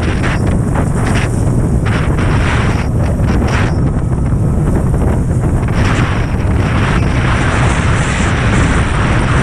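Strong wind buffeting the microphone in a constant low rumble, with a rushing hiss that grows louder about six seconds in.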